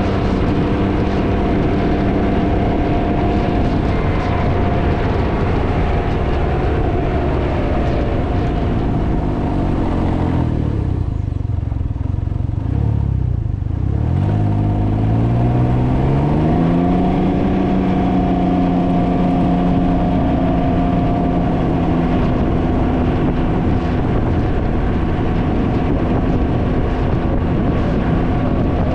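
Can-Am Ryker three-wheeler's engine running at road speed, with heavy wind noise on the microphone. The engine note falls as the bike slows through the middle, and the wind eases off. It then rises again as the bike speeds back up, settling into a steady cruise about seventeen seconds in.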